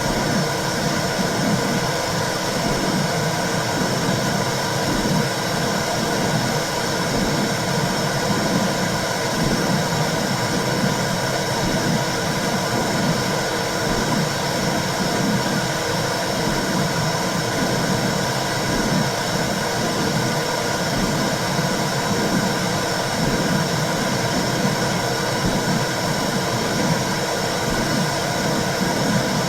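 Womb sound for soothing babies: a steady whooshing noise with a low pulse repeating about once a second, like a heartbeat heard through the body.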